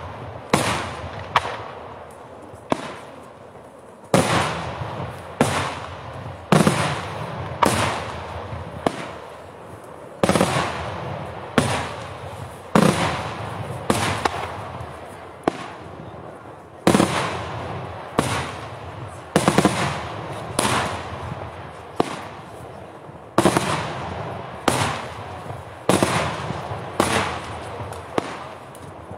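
Daytime fireworks display: aerial shells bursting in a long, steady series of loud sharp bangs, about one a second, each trailing off in an echo.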